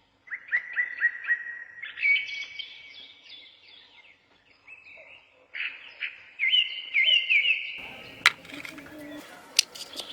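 Small birds chirping in quick runs of short, high notes, about four a second. Near the end the chirps stop, and a few sharp clicks or taps sound over a faint background hiss.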